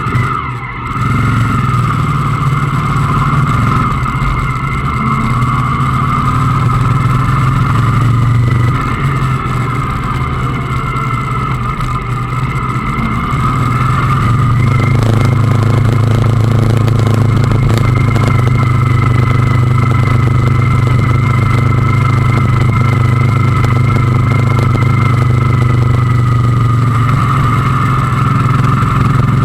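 Motorcycle engine running steadily while under way, easing slightly around ten seconds in and then settling back to a steady drone.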